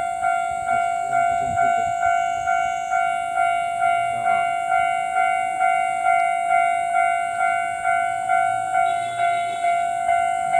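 Japanese railway level-crossing warning bell ringing, an even ding-ding at about two strikes a second, signalling that a train is approaching.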